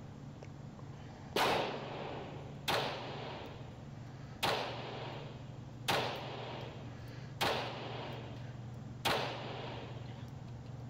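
Six shots from a .22 LR handgun firing CCI Mini-Mag rounds, spaced about a second and a half apart at a fairly quick pace, each a sharp crack with a short echo trailing off.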